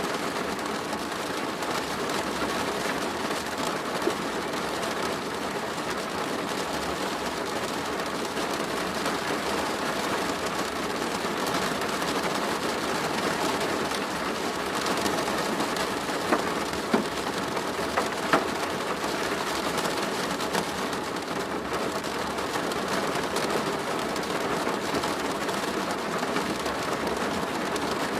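Steady rain drumming on a plastic roof, a dense even patter with a few louder single drops hitting about two-thirds of the way through.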